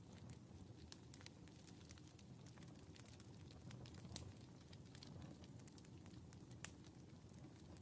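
Wood fire crackling faintly in a fireplace: a low steady hiss of burning with scattered small pops and snaps, and one sharper pop near the end.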